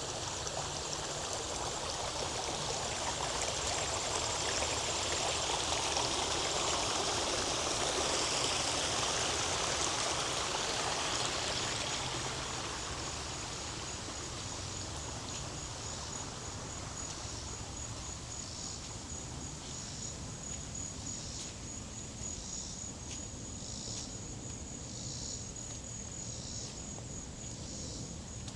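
Running water of a small forest stream, loudest over the first twelve seconds and then fading. As it fades, a high, steady insect trill of rapid pulses comes to the fore.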